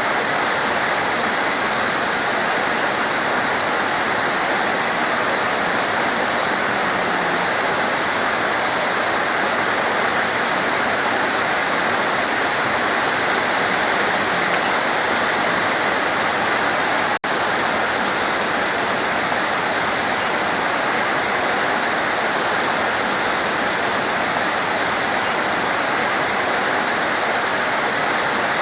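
Heavy rain pouring steadily, a continuous even hiss. The sound drops out for an instant about two-thirds of the way through.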